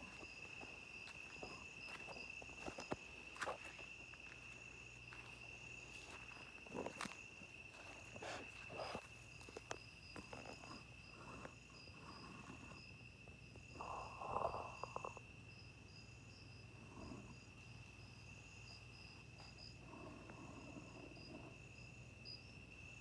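Insects calling at dusk: one steady high unbroken trill, with a second, higher insect chorus pulsing rhythmically above it. Scattered soft clicks and snaps sound now and then.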